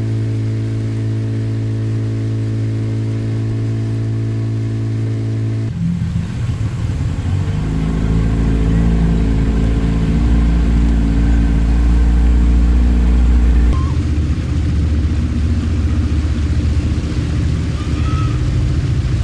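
A motor vehicle's engine running steadily, the sound changing abruptly in pitch and loudness a few times.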